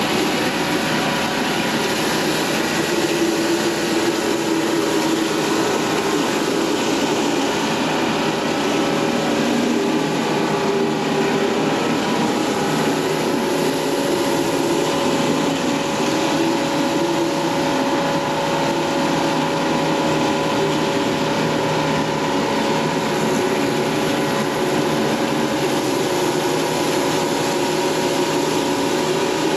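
Stihl RB 400 gas pressure washer running steadily under load while its wand sprays water onto a concrete driveway.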